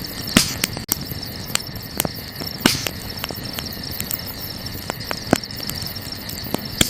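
Wood campfire crackling, with irregular sharp pops, a few of them louder snaps. Crickets chirr steadily underneath.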